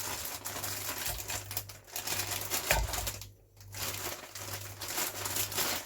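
Plastic bag of frozen mashed potato crinkling and rustling as a portion is tipped out and weighed, with a brief lull a little past halfway.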